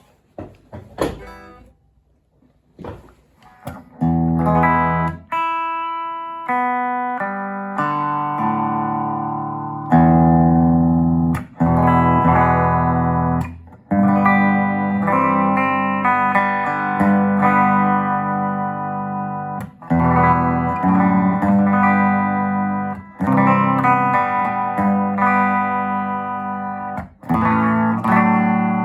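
Electric guitar with humbucking pickups, a Tokai gold top Les Paul copy, played through a circa-1965 Gibson GA-25RVT Hawk tube amp and picked up by a phone microphone. After a few quiet seconds with a couple of light clicks, chords and single notes are struck about four seconds in and left to ring and fade, phrase after phrase.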